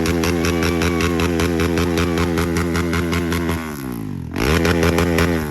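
A motor engine running hard at steady revs, then dropping in pitch about three and a half seconds in, revving up again sharply, and winding back down.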